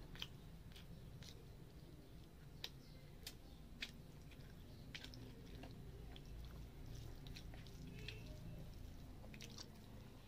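Quiet wet chewing and mouth clicks of a person eating rice and fried fish with gravy by hand. A few sharper clicks stand out in the middle.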